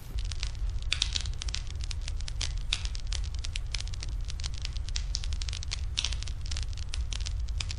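Crackling fire sound: a dense run of irregular pops and snaps over a steady low rumble, like a burning wood fire.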